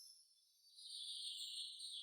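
A faint, drawn-out bird note that starts a little under a second in and slides slowly down in pitch.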